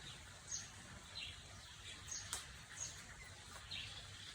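Small birds chirping faintly in the background, short high chirps repeating every half second to second.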